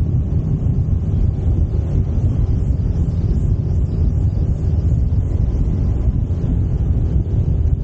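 Yamaha SMAX 155 scooter's single-cylinder engine running steadily under way, a low rumble mixed with wind buffeting the camera microphone.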